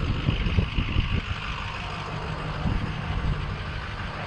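Tow truck's engine idling steadily, a low rumble with some irregular low thumps in the first second or so.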